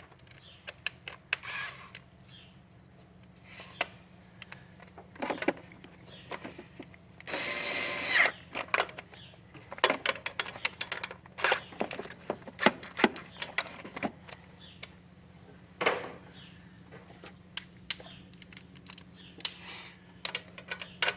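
Scattered clicks and knocks of tools and parts being handled, with a drill run once for about a second, about seven seconds in, to tighten nuts during throttle body assembly.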